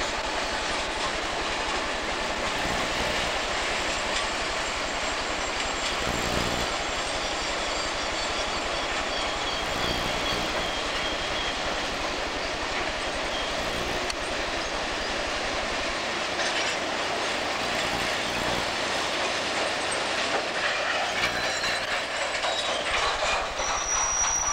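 Freight train rolling past on the rails with steady wheel and rail noise and a clickety-clack from the cars. A faint high-pitched wheel squeal shows near the end.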